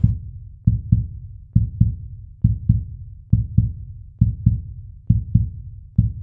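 Heartbeat sound: low paired thumps, lub-dub, repeating steadily about once every 0.9 seconds.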